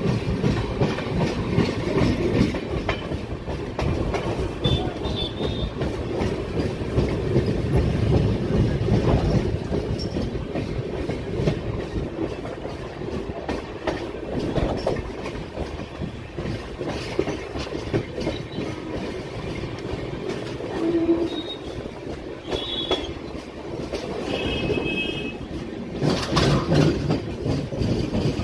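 Express passenger train running on the rails: a steady low rumble with the wheels clattering over the track, growing louder near the end.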